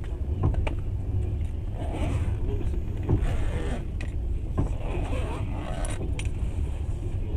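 Moving passenger train heard from inside the carriage: a steady low rumble with scattered sharp clicks and rattles from the wheels and carriage fittings.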